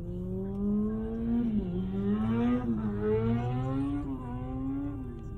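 A car engine accelerating, its pitch climbing steadily with a few brief dips along the way.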